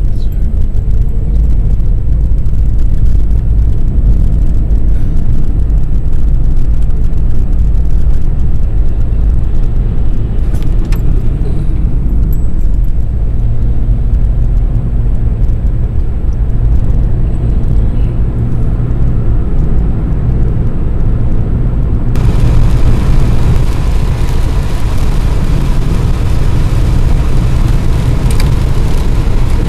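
Loud, steady low rumble of a river in flood, heaviest in the bass. About 22 s in it turns brighter, with more hiss on top.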